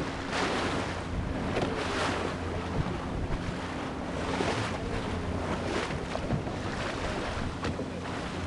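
Boat engine running with a steady low hum under water rushing and splashing in irregular surges, with wind buffeting the microphone.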